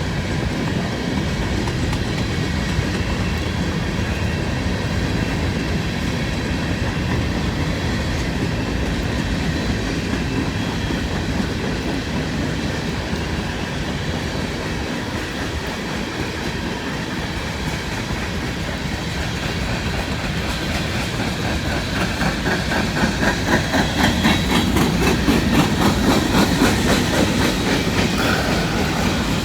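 Freight train tank cars rolling past, their wheels clicking rhythmically over rail joints, with steady rumble and rattle; the clicking gets louder in the last few seconds.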